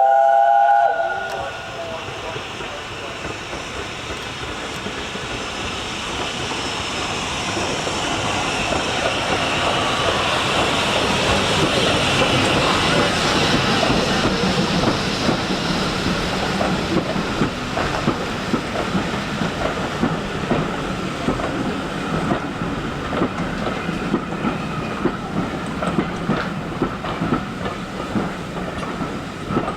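A steam locomotive's whistle sounds briefly at the start, then a steam-hauled train passes, growing louder to a peak about halfway through, with the carriage wheels clattering rhythmically over the rail joints in the second half.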